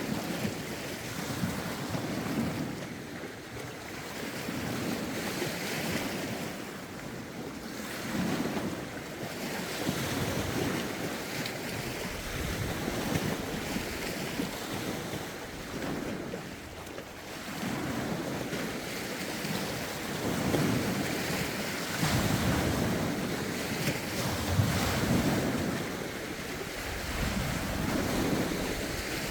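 Lake waves washing ashore in repeated swells a few seconds apart, under steady wind, with wind buffeting the phone's microphone as a low rumble, strongest in the second half.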